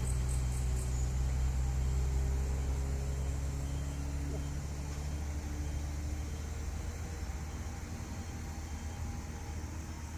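Heavy diesel truck engine running with a deep, steady drone as it pulls up the climb, slowly fading as it moves away.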